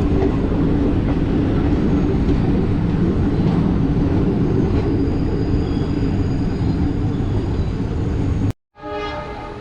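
Passenger train running on the track, a steady heavy rumble of the coaches. It cuts off abruptly near the end, followed by a quieter sound with a steady pitched tone.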